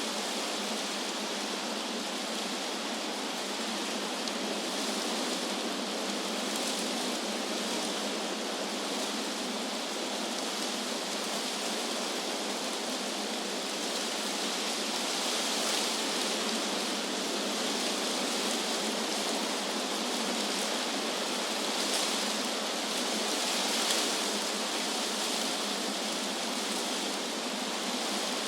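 Wind blowing through trees: a steady rustling hiss of leaves that swells slightly a few times in the second half.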